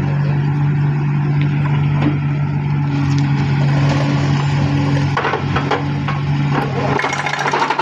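A heavy diesel engine running steadily with a constant low hum, with some clattering knocks from about five seconds in.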